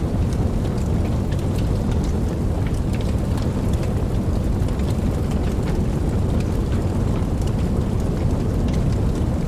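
Steady rain falling, with a deep, even low rumble underneath and scattered sharp drop ticks.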